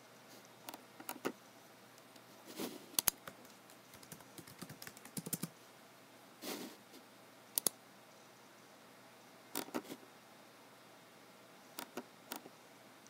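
Typing on a computer keyboard in short, scattered bursts: a few keystrokes at a time with pauses between, including a quicker run of keys around the middle and a sharp double click later on.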